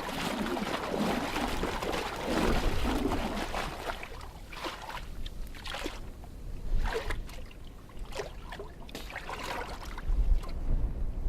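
Water sloshing and splashing in an ice hole, with uneven scraping strokes: a Weddell seal reaming the refreezing ice of its breathing hole with its teeth.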